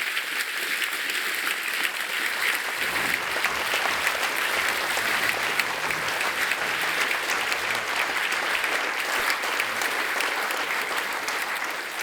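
Audience applauding: many hands clapping in a dense, even stream that holds steady.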